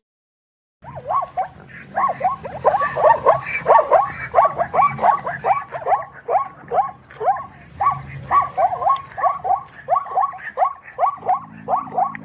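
Zebra calling: a long run of quick, yelping barks, about three a second, starting about a second in.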